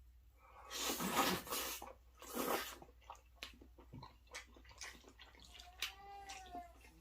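Fettuccine Alfredo noodles being slurped in two long noisy sucks, the loudest sounds, followed by wet chewing and mouth clicks, with a short pitched hum of enjoyment near the end.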